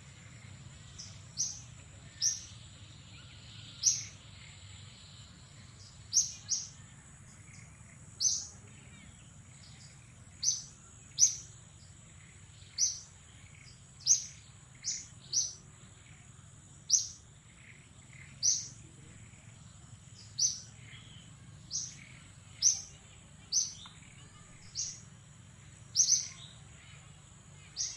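Short high-pitched chirps, each sweeping briefly downward, repeated irregularly about once a second over a faint steady high tone.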